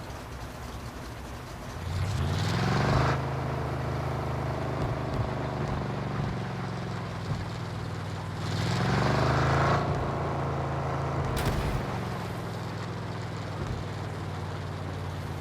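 Truck engine working off-road, revving up twice and holding the higher speed each time, with one sharp knock about two-thirds of the way through.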